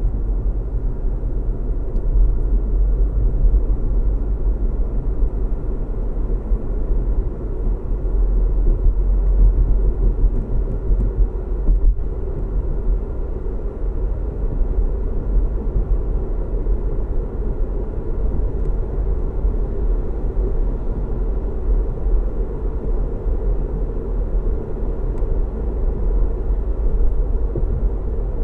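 Steady road noise inside a moving car: a low engine hum and tyre rumble at cruising speed, with no gear changes or revving.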